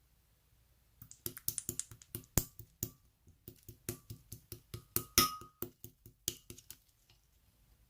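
Clear yellow slime being squished and pressed, giving a quick run of sticky clicks and pops, with one longer, louder squelch about five seconds in.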